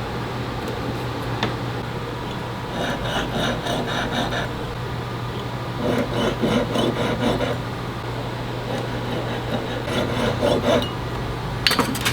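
A hand file scraping back and forth on a metal ring in three short bouts of quick strokes, over a steady low hum. A few sharp clicks come near the end.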